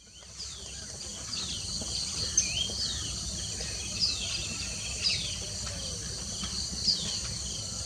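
Outdoor ambience: a steady high-pitched insect chorus, with short falling bird chirps roughly once a second over a low background rumble. It fades in during the first second.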